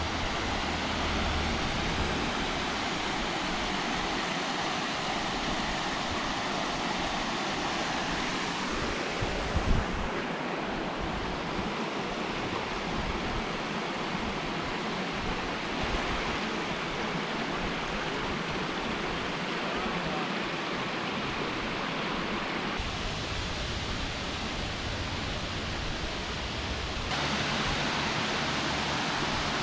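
Waterfall rushing: a steady, even noise of falling water that shifts abruptly in tone a few times. There is a brief thump about ten seconds in.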